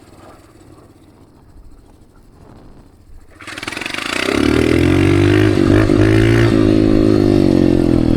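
Dirt bike engine running quietly at low revs, then about three and a half seconds in the throttle opens and it climbs within a second to a loud, steady run under power.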